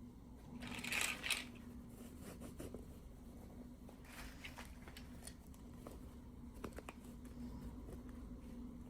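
Unboxing sounds from miniature toy packaging being handled: a short plastic crinkle about a second in, then scattered light clicks and taps of small pieces, over a faint steady hum.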